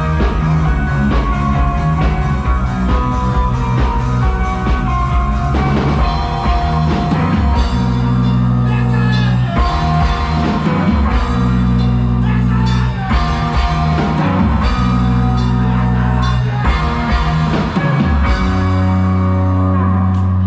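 Live rock band playing an instrumental passage with a drum kit and guitar. From about eight seconds in, long low bass notes hold and break off in a repeating pattern.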